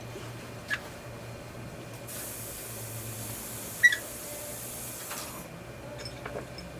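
Dental air syringe hissing for about three seconds, over a steady low hum of operatory equipment, with a couple of light clicks of instruments; the loudest click comes near the middle.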